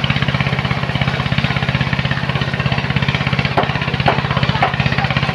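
Engine of a sand-loading machine running steadily at a fast, even pulse. Two sharp knocks come a little past halfway.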